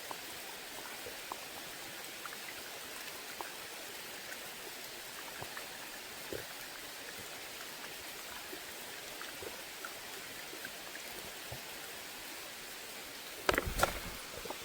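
Heavy rain falling steadily, an even hiss with scattered drops ticking close by. Near the end, a short cluster of sharp knocks.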